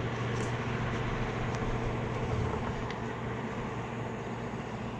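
A vehicle engine running with a steady low hum over an even road-noise hiss. The hum fades about halfway through.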